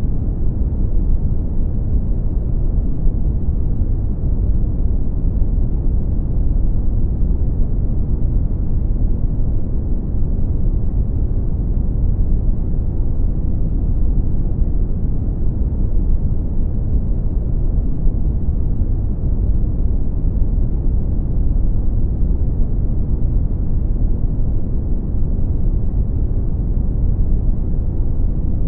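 Brown noise: a steady, deep, even rush with most of its weight in the low end and very little treble.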